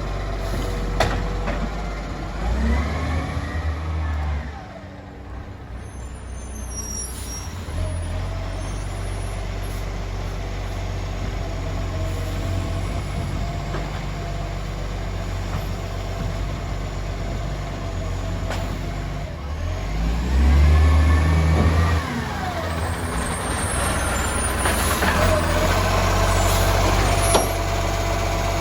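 Euro 5 garbage truck engine running at idle, revving up and back down twice during collection. There are a few short sharp hisses or knocks.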